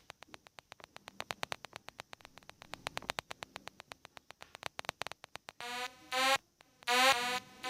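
DIY Eurorack Super Warp Generator synth modules making sci-fi warp sounds, stepped by a sequencer: first a fast, uneven train of clicks, then from about six seconds in, short gated bursts of buzzy pitched tones that sweep up and down in pitch.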